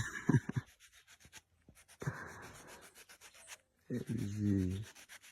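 Rough rubbing or scraping noise, strongest about two seconds in, with a man's short vocal sounds near the start and about four seconds in.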